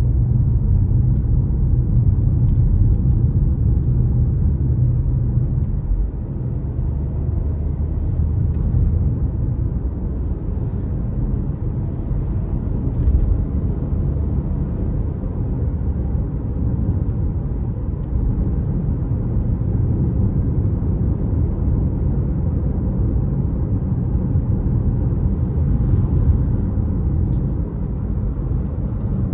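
Car driving: a steady low rumble of engine and road noise, easing slightly about six seconds in, with a few faint clicks.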